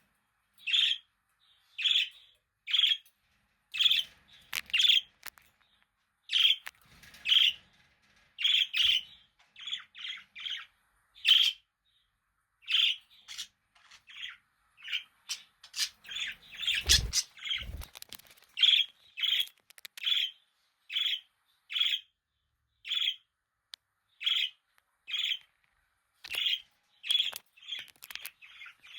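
A budgerigar chirping: short, sharp calls about once a second, sometimes in quick runs of two or three. There are two low thumps a little past the middle.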